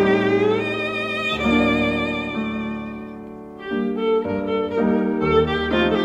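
Background music: a violin playing slow, sustained notes with vibrato over a lower accompaniment, fading briefly about halfway through before the next phrase.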